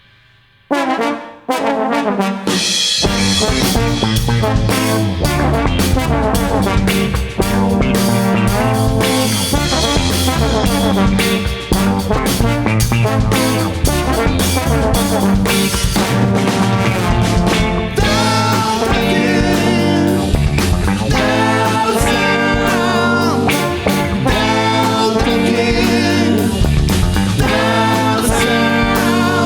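Live band music: trombone playing the lead over drum kit and baritone guitar in an instrumental passage. The band stops for a moment at the start and comes back in about a second later.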